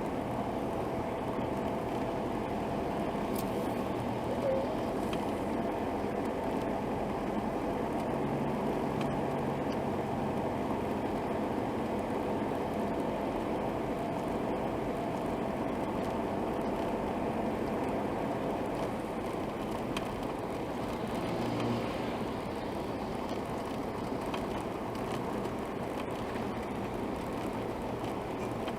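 Steady, continuous vehicle noise with a faint steady hum.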